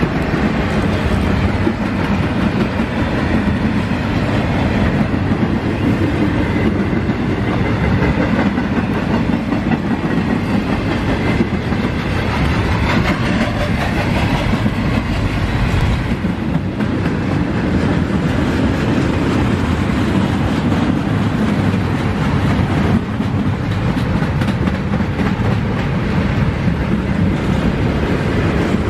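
Double-stack intermodal well cars of a freight train rolling past: a steady rumble of steel wheels on rail with rapid clicking over rail joints.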